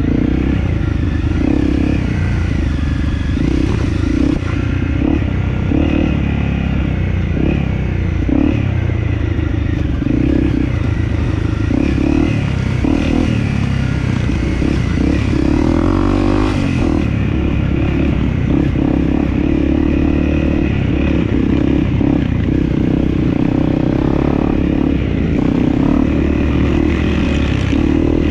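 Dirt bike engine running continuously while riding, its pitch rising and falling as the revs change.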